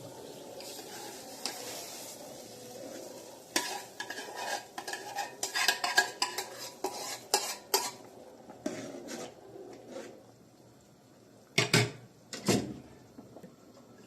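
Dishes and cutlery clinking: a quick run of sharp clinks of utensils against crockery, then two louder knocks near the end.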